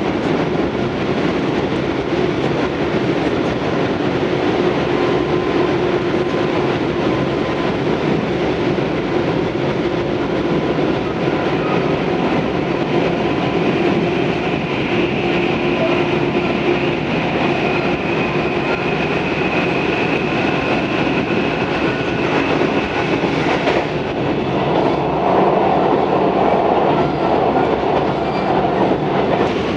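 Tobu 634-series electric railcar running between stations, heard from inside the car: a steady rumble of wheels on rail with clickety-clack over rail joints and faint steady tones. The sound changes and grows a little louder about 24 seconds in.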